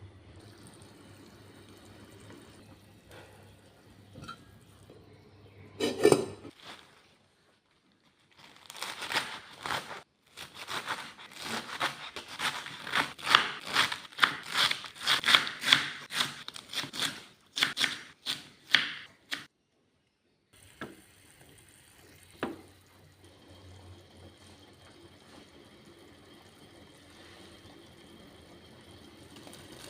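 Kitchen food-preparation sounds: a single loud knock, then a run of quick, sharp, crisp strokes lasting about ten seconds in the middle, with faint room hum either side.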